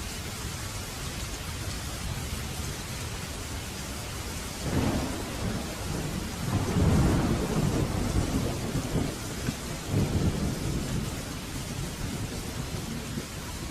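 Heavy rain falling steadily while a roll of thunder rumbles in about four and a half seconds in, swells to its loudest a couple of seconds later, surges again near the middle and fades back under the rain.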